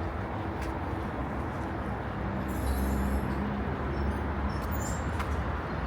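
Street traffic noise, with a motor vehicle passing close and rumbling louder for a couple of seconds in the middle.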